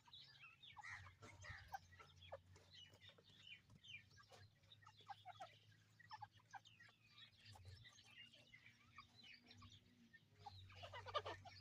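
Faint, soft clucking and short chirping calls of teetar (partridges), many brief notes scattered irregularly, over a low steady hum.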